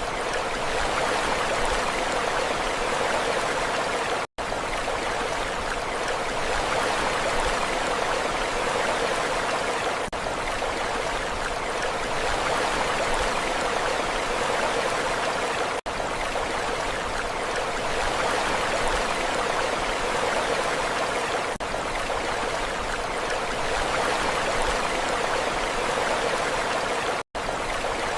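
Steady rushing water, an even wash of noise with no swell and fall of waves, that drops out for an instant three times.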